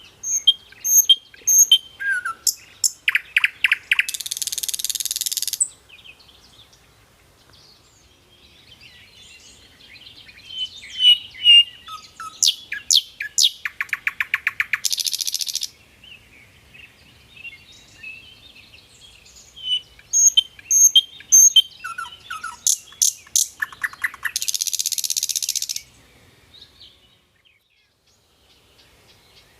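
A songbird singing three similar phrases about ten seconds apart, each made of sharp chirps and a fast trill and ending in a harsh, hissing buzz of over a second.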